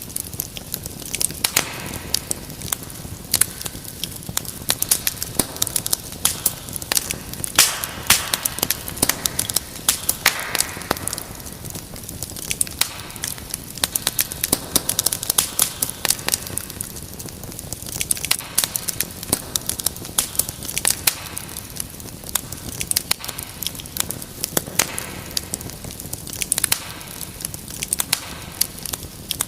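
Wood fire crackling, with many irregular sharp pops and snaps over a steady low hiss.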